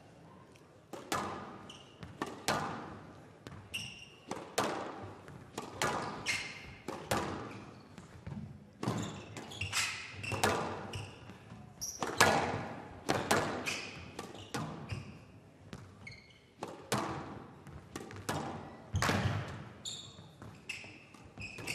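Squash rally: the ball is struck by racquets and smacks off the court walls in a quick, uneven run of sharp hits, each ringing out in the hall, with short high squeaks between them.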